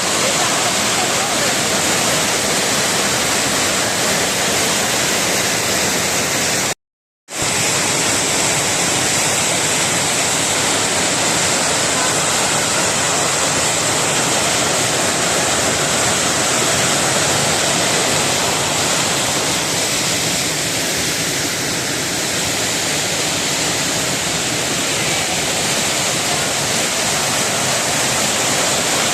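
Waterfall: a steady, loud rush of falling water, broken once by a brief total silence about seven seconds in.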